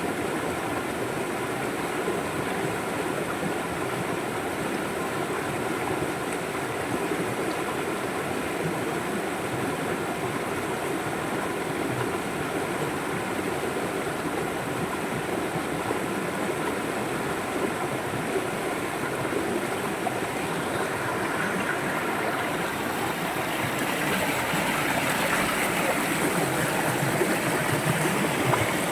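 River water flowing: a steady rushing of a stream, growing a little louder and brighter near the end.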